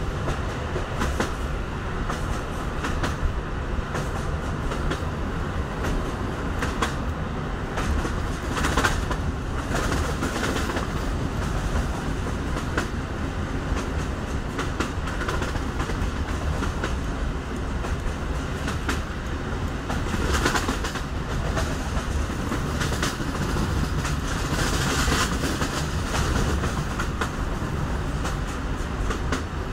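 EN57 electric multiple unit running along the track, heard inside the carriage: a steady rumble with the occasional louder clack of wheels over rail joints.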